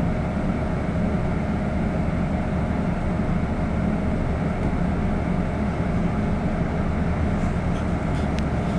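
City bus running, heard inside the passenger cabin: a steady low engine and road rumble with a faint constant whine.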